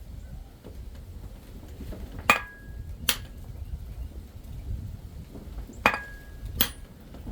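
Hammer striking metal on an anvil four times in two pairs, each pair a little under a second apart, the first blow of each pair ringing briefly. A steady low rumble runs underneath.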